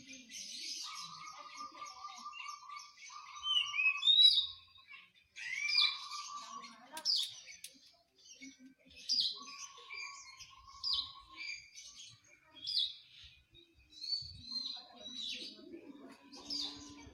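Songbirds singing: a varied run of sharp chirps and sliding whistles, broken by short buzzy trills.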